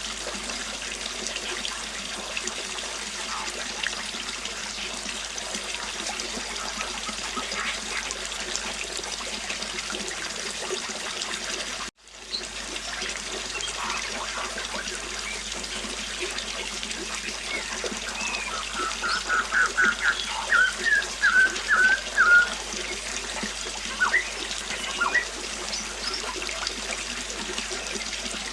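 Flowing river water running steadily. It cuts out for an instant near the middle and fades back in. About two-thirds of the way through, a bird gives a quick run of short chirps, with a few single chirps after.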